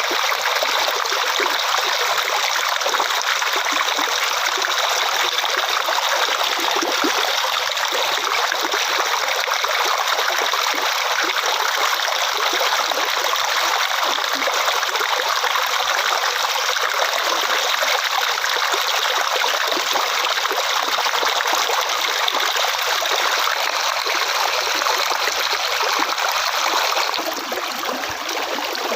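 Flowing water running and trickling steadily. About 27 seconds in the sound changes, becoming a little quieter and lower.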